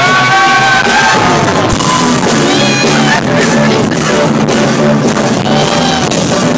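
Live rock band playing loudly, with guitar and drums, and a voice singing over it.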